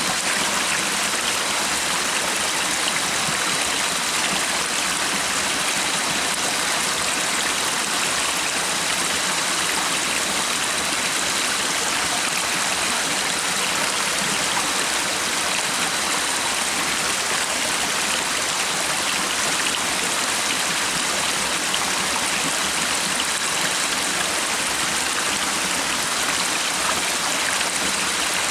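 Flowing stream water running steadily, an even rushing hiss with no breaks.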